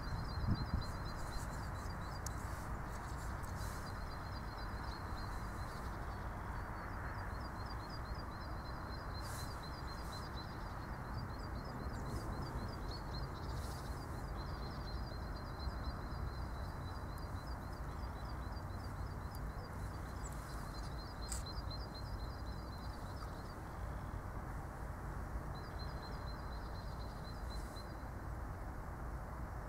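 A small songbird singing long runs of fast, high trilled notes, pausing and starting again several times, over a steady hiss of outdoor background noise.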